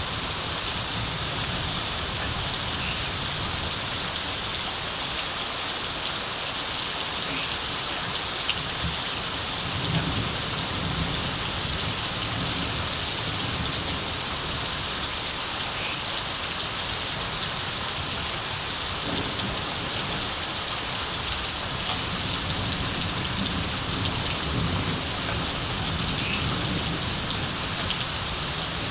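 Steady rain falling, with scattered drop ticks. Distant thunder rumbles low several times.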